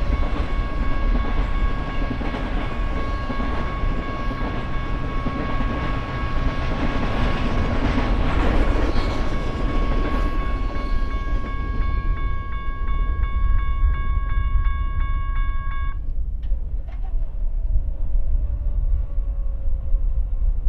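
Freight train rumbling past. Over it sounds a steady high chord of several tones, which turns pulsing about twelve seconds in and cuts off about four seconds later.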